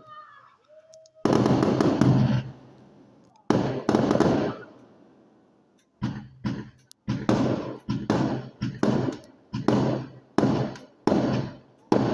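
Fireworks going off: two loud bangs, each with a long fading rumble, then from about halfway a rapid run of bangs at roughly two a second.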